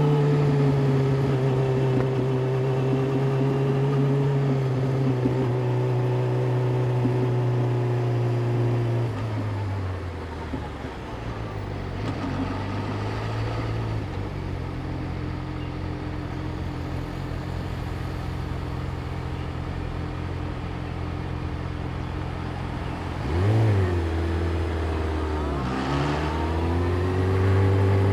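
Yamaha YZF-R6's inline-four engine running at steady revs, then dropping to idle about nine seconds in. Near the end a short throttle blip, then the revs climb as the bike pulls away and settle into a steady note.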